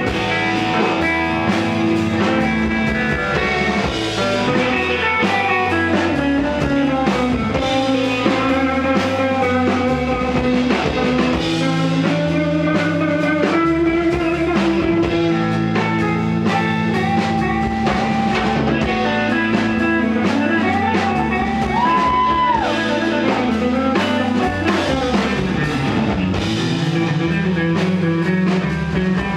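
Live rock band playing an instrumental passage: electric guitar lead over bass and drum kit, with no vocals.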